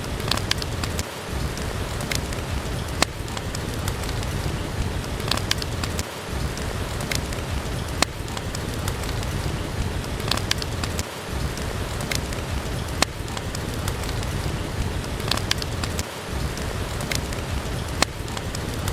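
Steady heavy rain, an even rushing patter, with sharp scattered pops from a crackling wood fire in a fireplace. The low rumble dips briefly about every five seconds, as in a looped recording.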